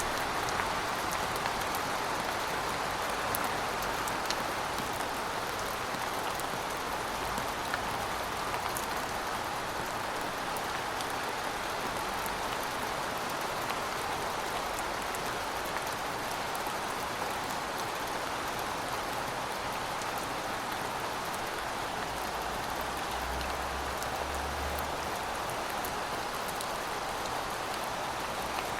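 Steady rainfall: a dense, even hiss of rain on a surface with scattered individual drop ticks. A faint low rumble comes in briefly near the end.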